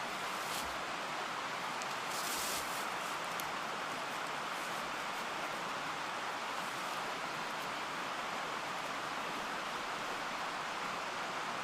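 Steady rushing of a mountain stream, with a few brief rustles or knocks in the first few seconds.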